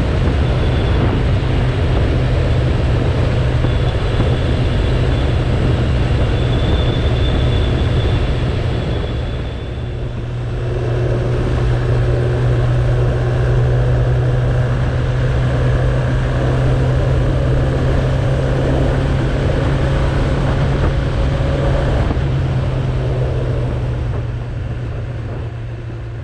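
Suzuki Bandit 1200's inline-four engine running steadily while riding, with wind and road noise. It eases off briefly about ten seconds in, picks up again, and fades out near the end.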